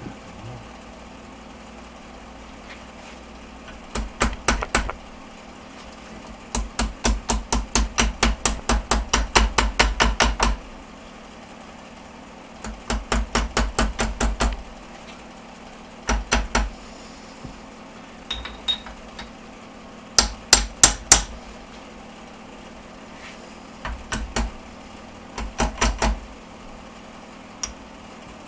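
Hammer tapping a part down onto the secondary shaft of a UAZ Patriot Dymos gearbox, in bursts of quick light blows on metal, about four a second, with pauses between; the longest run lasts about four seconds.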